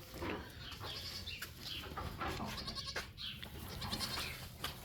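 Goat kids bleating faintly, with a few sharp knocks scattered through.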